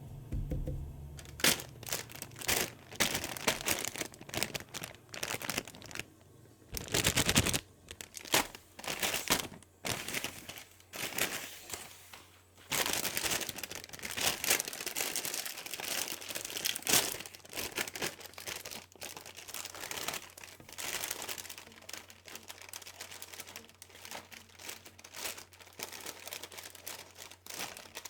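Crinkling and crackling of a Doritos chip bag and chips being handled, in irregular bursts throughout.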